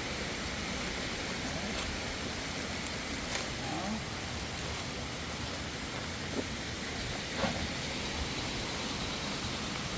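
Steady rush of flowing water, with a few faint clicks and brief distant voices.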